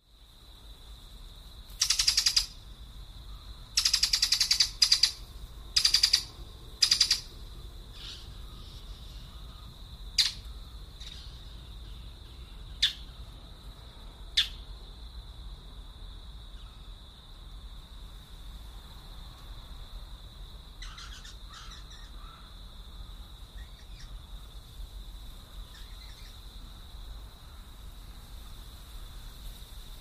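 Birds calling: a run of about five loud, harsh calls in the first seven seconds, then three short, sharp single calls and a few fainter calls later, over a steady high-pitched tone.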